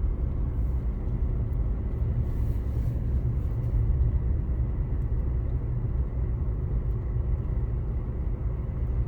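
Steady low rumble of a car driving on a road.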